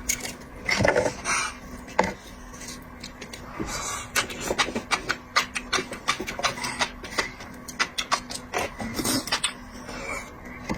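Close-miked eating sounds of seafood: irregular quick clicks and crunches of shellfish being handled and chewed, coming several a second from about four seconds in.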